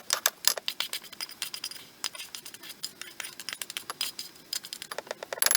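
Irregular light metallic clicks and clinks of a utensil against a pan or dish, with a quick flurry of clinks near the end.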